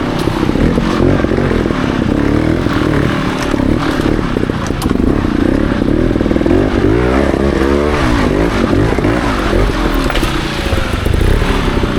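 Trials motorcycle engine running and being blipped, its pitch rising and falling, with a run of quick revs about seven seconds in.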